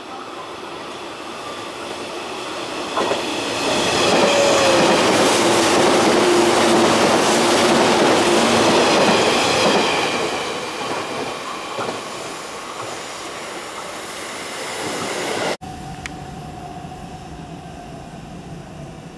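JR 485-series electric train passing through a station without stopping: the train sound grows loud, holds for several seconds, then fades as it goes by. An abrupt cut near the end leaves a quieter, steady sound of the departing train.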